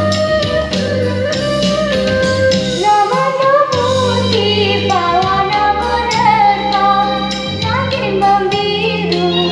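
A female voice singing a solo melody over an instrumental backing track with sustained bass.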